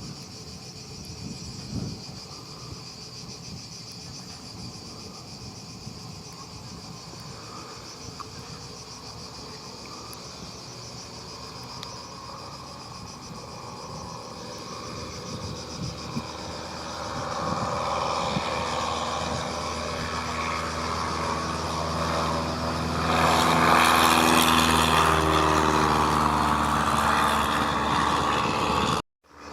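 Crickets chirring steadily. From about halfway, a light aircraft's engine comes in and grows louder, loudest in the last few seconds, then cuts off abruptly just before the end.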